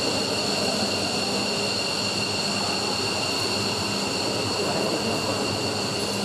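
F-15's Pratt & Whitney F100 turbofan engines running steadily during a ground engine run: a constant rush of jet noise with a steady high-pitched turbine whine.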